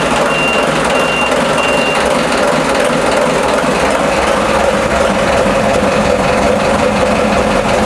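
TDME-490 58 hp marine diesel running steadily just after starting, with the low-oil-pressure alarm beeping about every two-thirds of a second until it stops about two seconds in, as oil pressure comes up.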